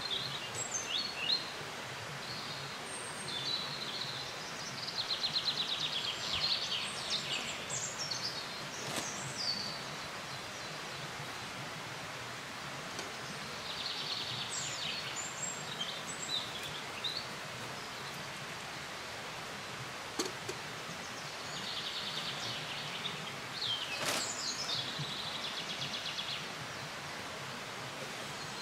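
Songbird singing short trilling phrases that repeat every several seconds, over a steady outdoor hush. A couple of sharp clicks stand out, about a third of the way in and again near the end.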